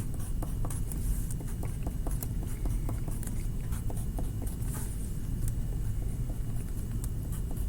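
Quick, short strokes of a drawing tool on a paper art card, many small ticks and scratches in an uneven rhythm as snowflakes are drawn, over a steady low hum.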